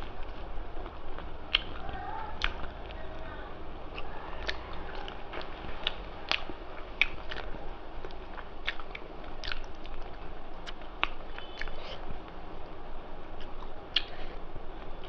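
Close-miked mouth sounds of a person chewing a mouthful of rice and mutton curry: frequent irregular wet clicks and smacks, several a second.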